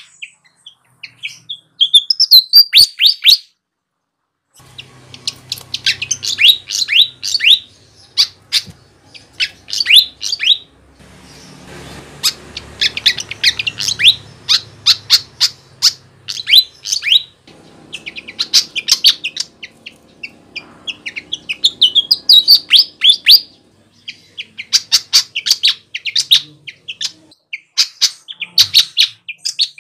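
Sikatan (flycatcher) singing vigorously: rapid phrases of sharp, high, quickly falling chirps, each phrase lasting one to three seconds with short pauses between.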